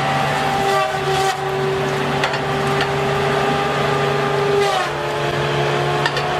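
Two-stroke chainsaw engine running steadily at high revs, with its pitch dipping slightly a little before five seconds in.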